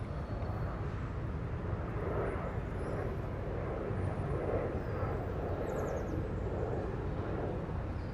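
London city-park ambience: a steady low rumble of distant city traffic under a mid-range wash that swells and fades, with a few faint high peeps about six seconds in.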